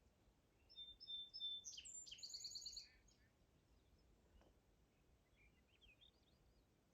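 A small songbird sings once, faintly: a few separate high notes, then a fast trill of repeated notes, lasting about two seconds. A few fainter chirps come near the end.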